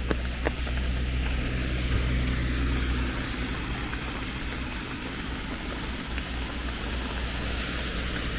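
Steady rain hiss with a vehicle engine running, a low hum that is strongest over the first three seconds and then fades. A few sharp drip ticks come near the start.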